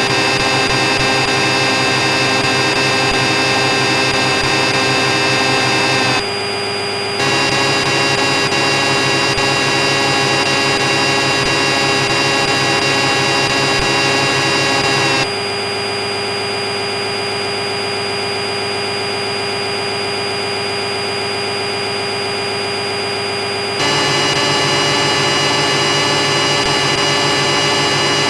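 CNC machine spindle running steadily at speed with a steady high-pitched whine, just after spinning up. A louder, rougher machine noise stops for about a second near the start, comes back, then drops out for about eight seconds before returning near the end.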